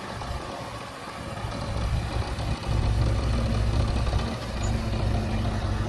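JCB 3DX backhoe loader's diesel engine running under work, quieter at first and growing louder about two and a half seconds in.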